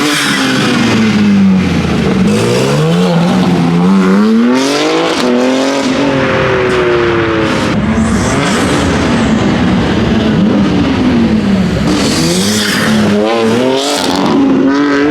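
A car engine revved hard and repeatedly, its pitch rising and falling every second or two, over a hiss that swells a few times.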